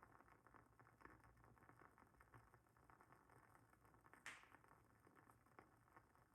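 Wooden wick of a WoodWick candle crackling faintly, with small irregular ticks and one louder pop about four seconds in.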